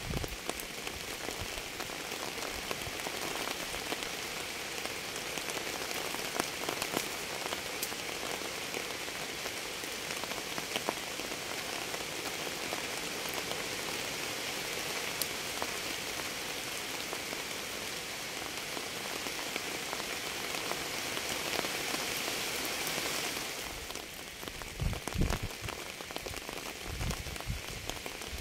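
Steady rain falling on a surface, a dense hiss with individual drops ticking through it. Near the end the hiss thins and a few dull, low thumps come in.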